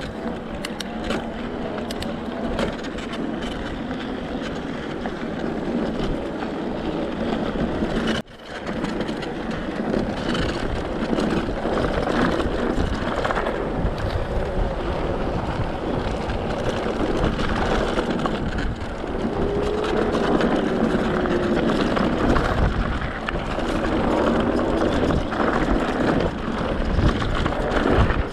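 Ride noise from an electric mountain bike on a dirt trail: steady rolling noise from the tyres with many small rattles and clicks over the rough ground. Twice in the second half a faint rising-and-falling whine comes through.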